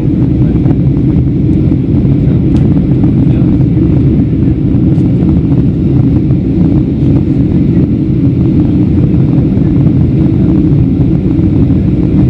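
Steady low drone of airflow and the CFM56-7B engines heard inside the cabin of a Boeing 737-700 in flight as it begins its descent.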